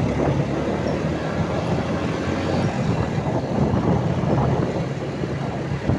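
Truck on the move: a steady low engine drone with irregular knocking and rattling over it.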